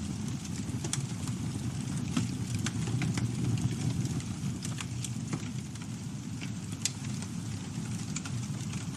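Campfire burning with a steady low rumble of flames and irregular sharp crackles and pops from the burning wood, one louder pop about seven seconds in.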